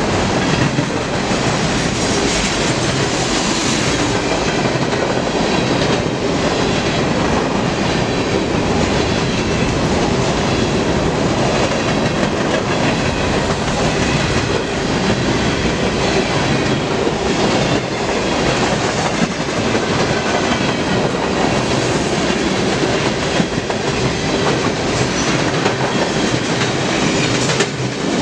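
A train's cars rolling steadily past at close range, their wheels clacking over the rail joints.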